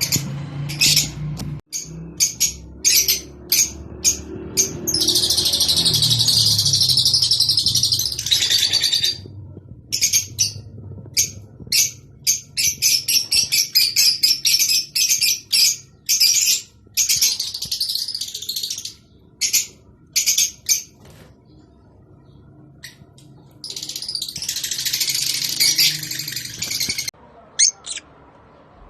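Lovebirds chattering: sharp, high chirps, some single and some in fast runs lasting several seconds, the kind of breeding-season chatter played to stimulate lovebirds to mate.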